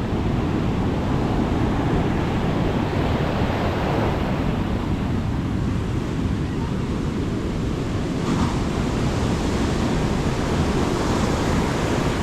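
Sea waves breaking and washing on the beach, with wind rumbling on the microphone. A brighter wash of surf comes in about eight seconds in.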